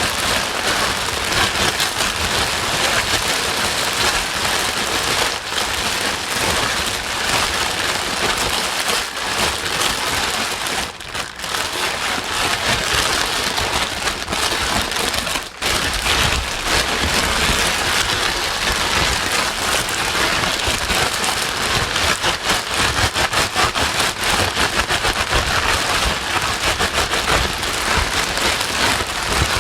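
Continuous white noise, an even rushing hiss like rain falling on a surface, with two brief dips about 11 and 15 seconds in.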